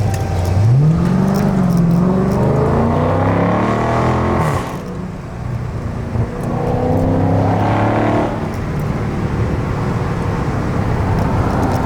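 Widebody Scat Pack's 392 HEMI V8 through a loud aftermarket exhaust, accelerating hard: the engine note climbs and holds, drops off about four and a half seconds in, then climbs again and falls off about eight seconds in, after which it runs along steadily.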